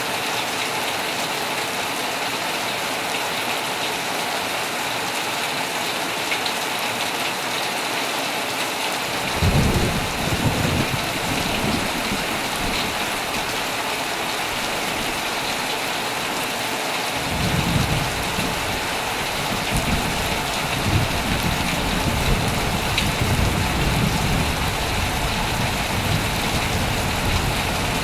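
Heavy rain falling steadily as an even hiss. Thunder rumbles briefly about a third of the way in, then a longer low rolling rumble of thunder starts a little past halfway and carries on.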